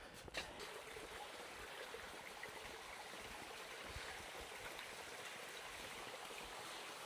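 Faint, steady trickle of running spring water, with one sharp click shortly after the start.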